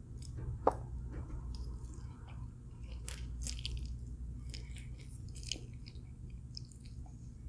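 A person chewing and biting food close to the microphone, with crackly mouth clicks and one sharp click under a second in, over a steady low room hum.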